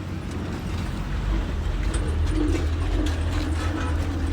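Motor vehicle engine running with a steady low rumble that grows louder over the first second or so, with light rattling clicks over it.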